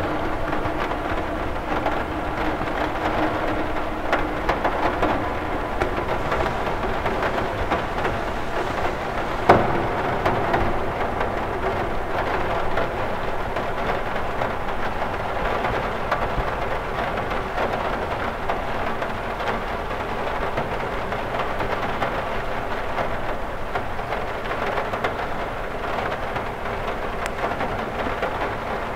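Rain falling steadily on a cathedral window, a dense even hiss of drops on the glass, with one sharper, louder drop striking about nine and a half seconds in.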